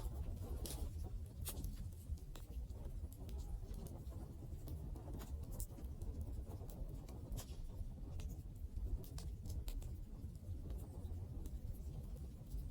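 Wood campfire crackling: scattered, irregular sharp pops and snaps over a steady low rumble.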